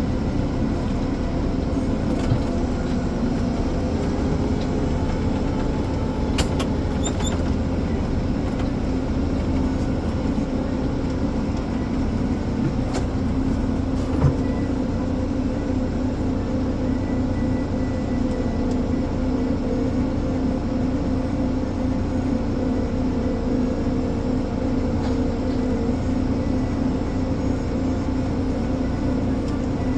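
Ponsse Elephant forwarder's diesel engine running steadily as the machine drives along a road: an even drone with a low hum. There are a couple of light knocks about six seconds in and again near halfway.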